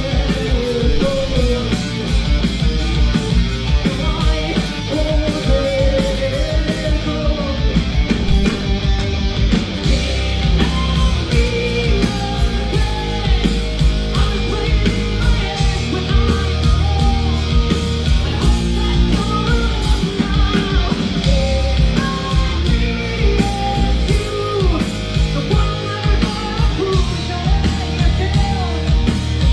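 Live hard rock concert audio: a female lead vocal over distorted electric guitars, bass and heavy drums.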